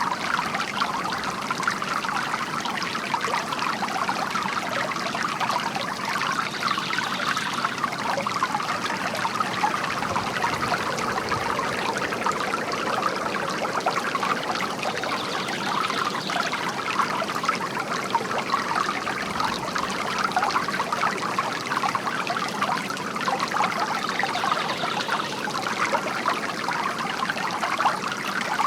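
Water from a bamboo garden fountain trickling and splashing steadily.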